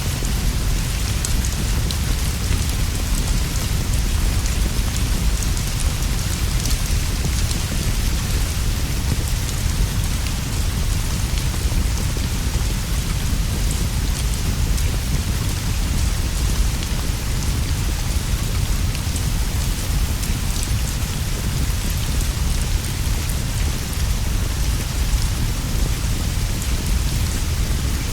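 Steady rainfall, an even hiss of drops with a deep low rumble underneath and faint scattered ticks, unchanging throughout.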